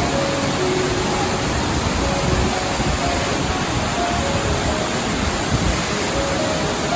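Steady rush of a waterfall, with a slow, soft melody of single notes playing over it.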